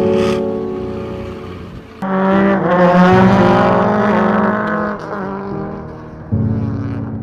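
Intro music with a car engine sound effect whose pitch rises and falls in the middle.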